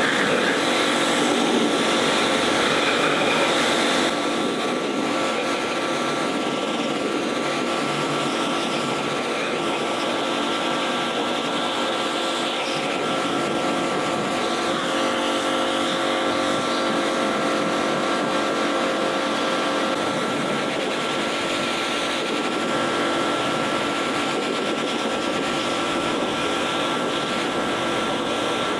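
Pressure washer running steadily, a constant machine whine under the hiss of the water jet rinsing loose dirt off a truck's bodywork. It starts suddenly and holds an even level throughout.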